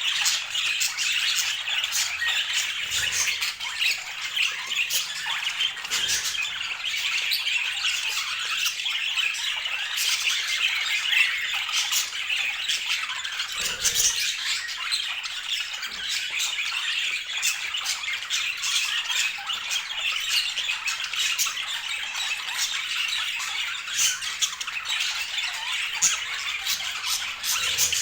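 Budgerigars chattering without a break, a dense stream of high warbling chirps mixed with short, sharp squawks.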